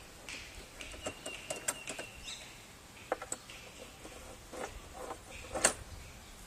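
Scattered light clicks and knocks of the Campro engine's spark plug cover being worked loose and lifted off by hand, the sharpest knock about five and a half seconds in.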